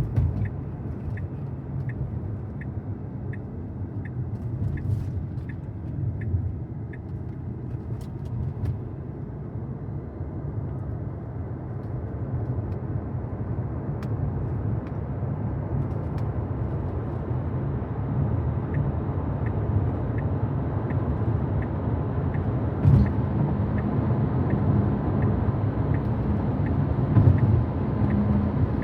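Road and tyre noise inside the cabin of a 2023 Tesla Model Y Performance, growing louder as the car gains speed. The turn signal ticks about twice a second for a right turn onto a highway ramp, clearest in the first several seconds.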